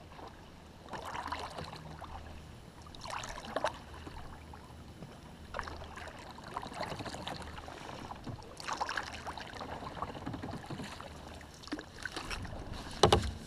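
Kayak paddle strokes in lake water: a splashing swish every two to three seconds, with water dripping between strokes over a low steady rumble, and a single sharp knock near the end.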